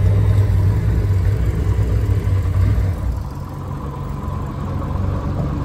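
Vehicle engine idling steadily with a low rumble; about three seconds in the rumble drops away and the sound gets quieter.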